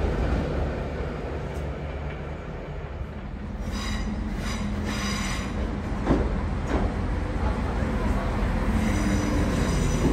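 The rumble of a passing locomotive-hauled train dies away over the first couple of seconds. Then a Northern Ireland Railways CAF diesel multiple unit pulls into the platform with a high squeal from its wheels and brakes over its engine hum, its wheels clicking over a rail joint twice about six seconds in.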